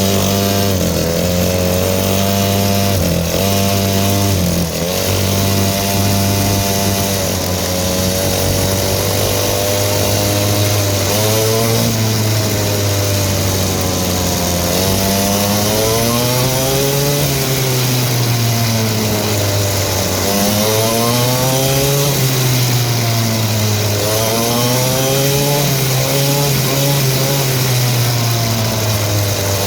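Dirt bike engine running while riding. Its pitch holds fairly steady for the first several seconds, then rises and falls again and again every few seconds as the throttle is opened and eased off.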